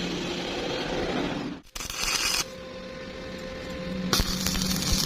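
Electric arc welding: crackling, hissing arc noise in two bursts that start and stop abruptly, the second with sharp pops, over a low electrical hum.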